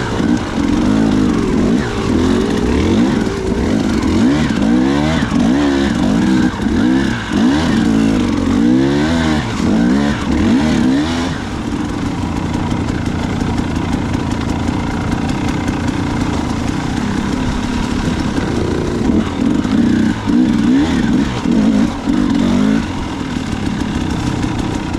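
Dirt bike engine revving up and down again and again under throttle, settling steadier in the middle and revving again near the end.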